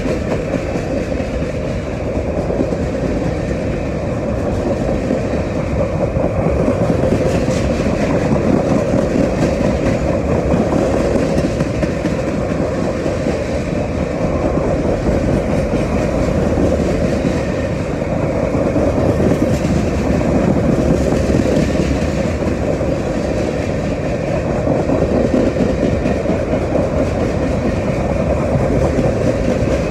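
Freight train cars rolling steadily past at close range: steel wheels rumbling on the rails with clickety-clack over the joints and a steady hum running under it.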